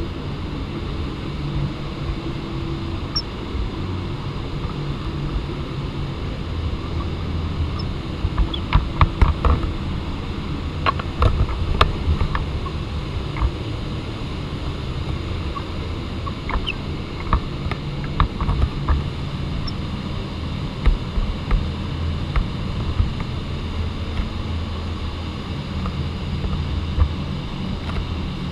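A motor running steadily with a low hum, with scattered sharp clicks and knocks, most of them about a third of the way in and again past the middle.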